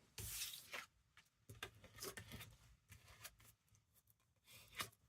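Faint rustling of paper being handled and set into place on a journal page, with a brief louder rustle just after the start and scattered small taps and rustles after it.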